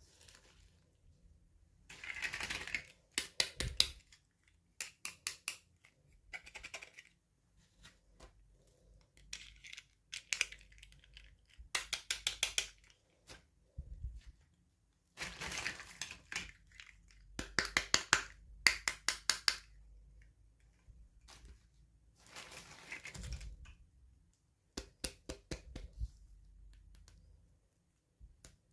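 Miniature toy packaging being unboxed by hand: bouts of rustling and crinkling, each followed by quick clusters of small sharp clicks and taps, with short pauses between.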